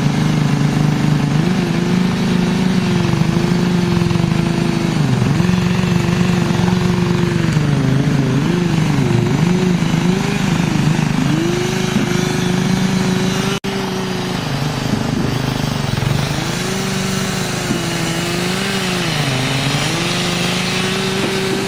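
A small engine running on a wood-processing machine. Its pitch repeatedly sags and recovers as it takes load, with a brief break about two-thirds of the way through.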